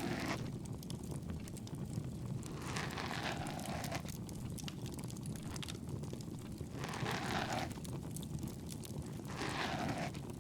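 Bonfire crackling with a steady low rumble and many fine pops, and a soft rushing stroke about every two and a half seconds.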